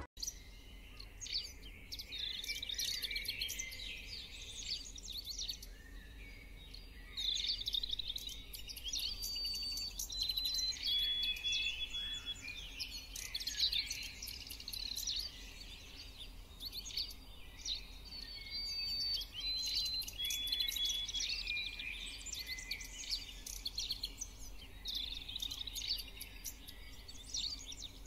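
Several birds chirping and singing continuously, among them a repeated phrase of clear whistled notes stepping down in pitch, heard a few times.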